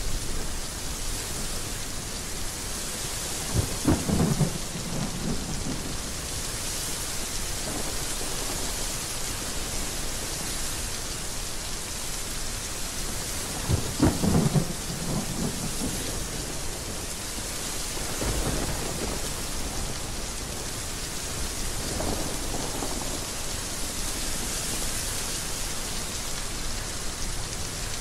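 Heavy rain falling steadily, with thunder rumbling over it: two louder claps, about four seconds in and about halfway through, then fainter rolls later.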